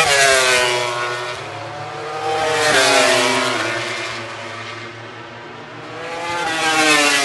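MotoGP racing motorcycles passing at speed. The engines' high-pitched note swells and falls away with each pass. There are three loud passes: one at the start, one about three seconds in with a sudden drop in pitch, and one near the end.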